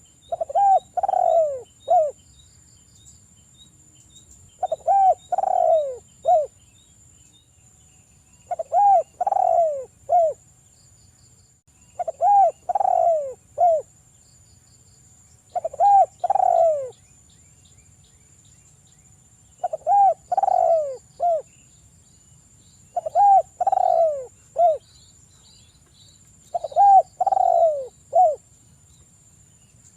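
Spotted dove cooing: a mellow phrase of several coos repeated about every three and a half seconds, eight times in a row. Faint high chirps run underneath.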